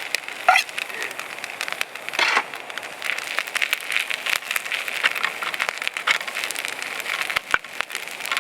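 A liver and garlic-chive stir-fry sizzling in a pan over a campfire: a steady hiss with dense, fine crackling pops, and a short louder burst about two seconds in.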